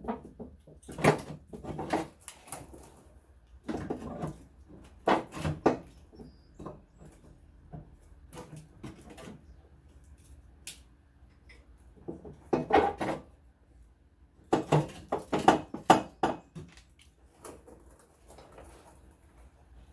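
Hard plastic trim around a car's fuel filler neck being pried and pulled loose by hand: bursts of clattering clicks and knocks, with quieter pauses between.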